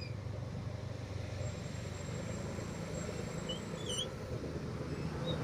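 Motorcycle engine running steadily under way, a low even hum, with a few short high chirps about three and a half to four seconds in.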